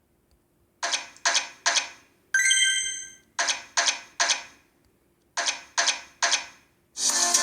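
Electronic sound effects of a video slot machine game: short sharp clacks in three groups of three, a bell-like chime between the first two groups, and a music jingle starting near the end.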